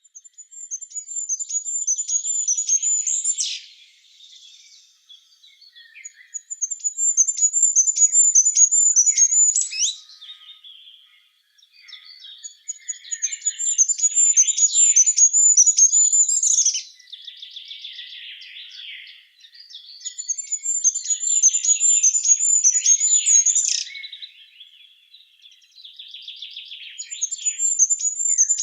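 Songbirds singing. One bird repeats a rapid, high, even trill about every six seconds, each phrase lasting about three seconds and ending in a quick sweep, with softer twittering between the phrases.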